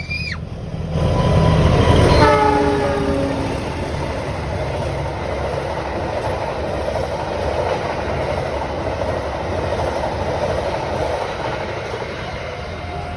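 Indonesian CC 206 diesel-electric locomotive and its train passing: the horn sounds briefly about two seconds in, falling slightly in pitch, then the steady rumble and clatter of the wagons on the rails goes on.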